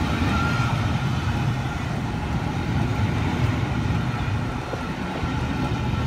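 Railway passenger coaches rolling past close by as the train pulls out: a steady low rumble of wheels on the rails, easing slightly near the end.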